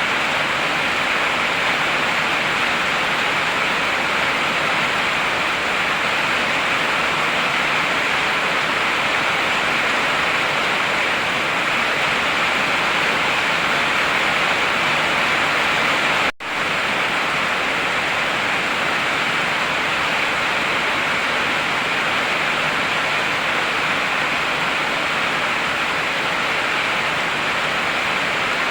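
Heavy rain falling steadily, an even hiss with no thunder. It drops out for a split second about halfway through.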